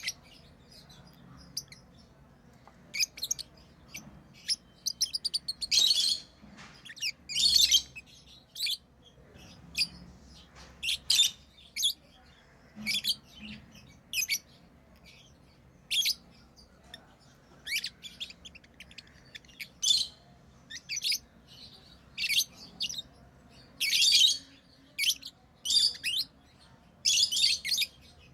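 Pet lovebirds chirping: short, shrill, high-pitched calls at irregular intervals, some in quick runs of several.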